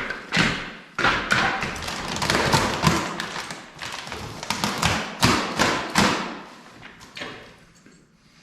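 Rock salt and sand being spread on an icy driveway: an irregular run of crunching, scattering strikes that dies away near the end.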